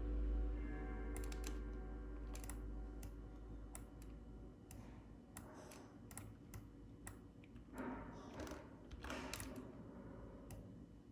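Computer keyboard keys and clicks tapped irregularly, a few at a time. Soft background music with held tones fades out over the first few seconds.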